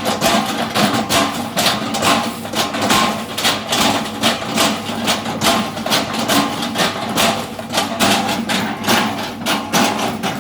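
Excavator engine running under a rapid, irregular series of knocks and cracks, typical of the bucket chopping and crushing an oil palm trunk.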